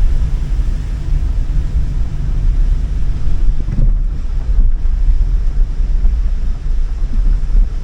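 Strong gale wind buffeting the microphone: a loud, uneven low rumble that rises and falls in gusts.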